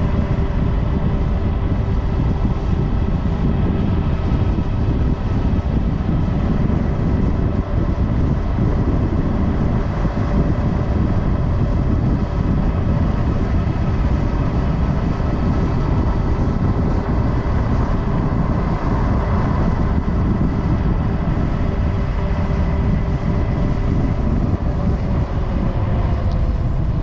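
Rushing wind and road noise from riding a Super73 S2 electric bike at traffic speed, loud and steady, with a faint steady whine above it.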